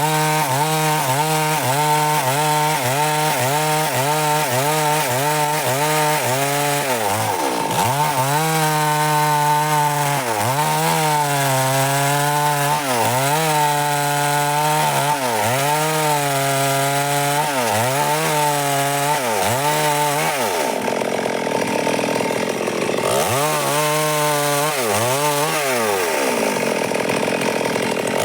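Stihl MS 382 two-stroke chainsaw running at high revs, its pitch dipping again and again, about every second or two, as the chain bites into dry wood under load. About two-thirds of the way through it drops toward idle for a couple of seconds, then revs back up and cuts again.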